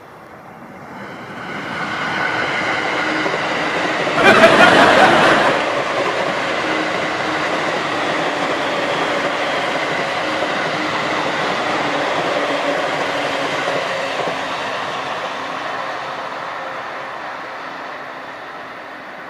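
Electric passenger train running past on the rails, a steady rumble of wheels with a faint motor whine. It builds over the first two seconds, is loudest briefly about four seconds in, and fades over the last few seconds as it draws away.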